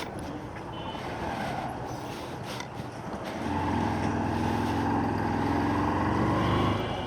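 Motorcycle engine running on a ride, under road noise. A steady engine tone comes up about three and a half seconds in and drops away near the end.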